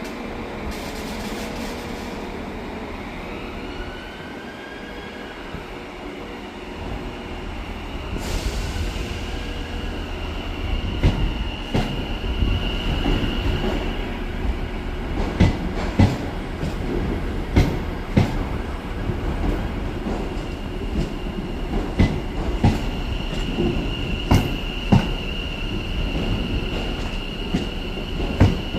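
A train running past: a low rumble builds up about a third of the way in, with a run of sharp knocks from the wheels going over rail joints, and a high steady wheel squeal that comes in twice.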